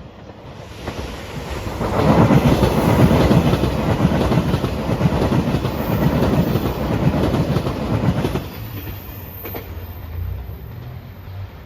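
A train passing the level crossing at speed, its wheels clattering over the rail joints. The noise builds over the first two seconds, holds for about six seconds, then drops off abruptly to a lower rumble as the train moves away.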